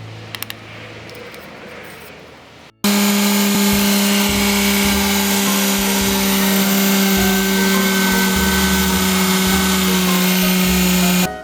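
An electric power tool's motor running loud and steady at one constant pitch, starting suddenly about three seconds in and cutting off near the end.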